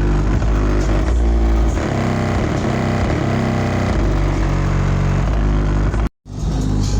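Bass-heavy music played loud through a car's subwoofer system, the low notes shifting from one to the next. It cuts out for a split second near the end.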